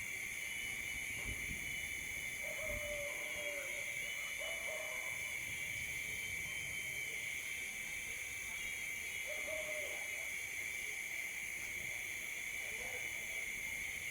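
A steady chorus of night insects, its high shrill tone constant throughout, with four short hooting animal calls: two close together a few seconds in, one about halfway, one near the end.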